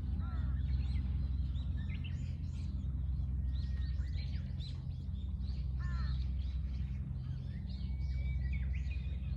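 Several wild birds chirping and calling, with a few harsher, cawing calls about a second in, around six seconds and at the very end, over a steady low hum.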